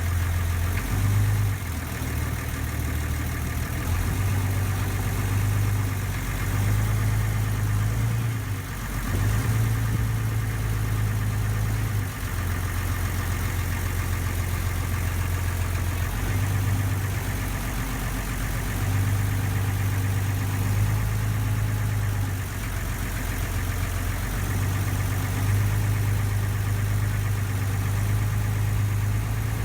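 Ferry's engine running steadily, a low drone whose pitch shifts slightly every few seconds, over a steady hiss.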